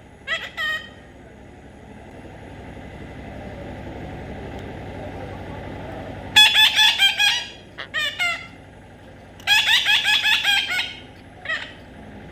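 A parrot giving rapid series of harsh, repeated squawking calls in several bursts, with gaps between them filled by a steady low background rumble.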